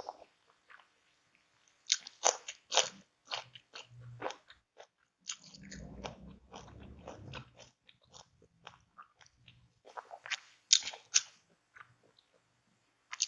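A person eating: a string of sharp, crunchy bites and chewing, in two loud clusters, with a dull low rumble about halfway through.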